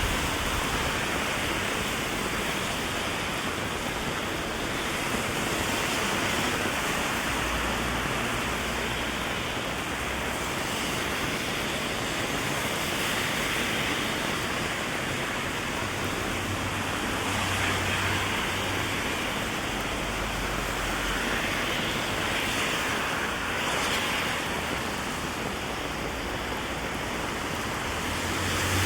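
Heavy rain falling, a steady dense hiss, with a few low rumbles coming and going.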